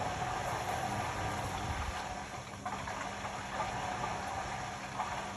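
Indesit Innex BWE 91496X washing machine running, a steady mechanical noise with a held mid-pitched tone and a low hum underneath.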